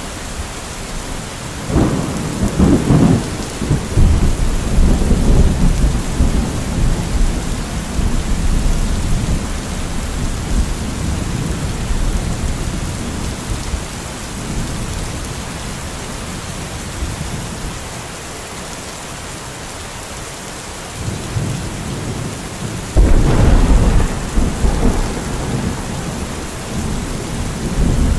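Steady heavy rain in a thunderstorm, with thunder rumbling twice: once a couple of seconds in, rolling on for several seconds, and again about three-quarters of the way through, starting with a sharp crack.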